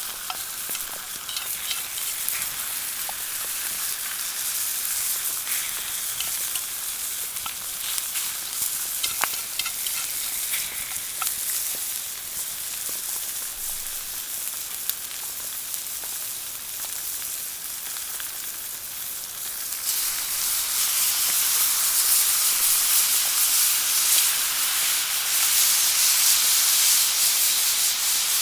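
Food sizzling as it fries in a pan, with small scattered pops and crackles. About twenty seconds in, the sizzle gets louder and stays that way.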